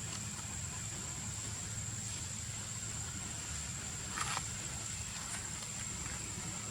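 Outdoor ambience: a steady low rumble under a thin, steady high whine, with a brief rustle about four seconds in.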